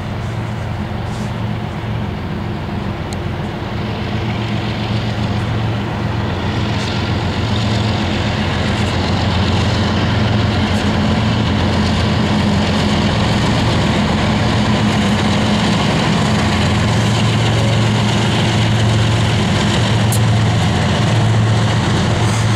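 Two BNSF diesel locomotives passing with their engines running: a steady low drone that grows louder as they draw near. The covered hopper cars then roll by on the rails.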